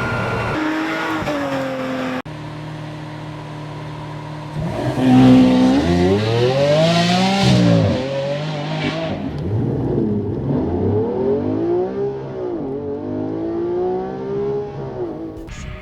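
Supercar engine and exhaust running, with an abrupt cut about two seconds in. From about four and a half seconds in it is revved hard: the pitch climbs to a peak, drops, and then rises and falls several more times.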